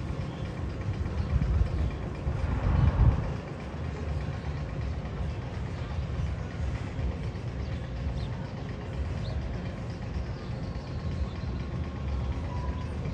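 Roller coaster train rumbling on its steel track, a steady low rumble that swells louder about two to three seconds in.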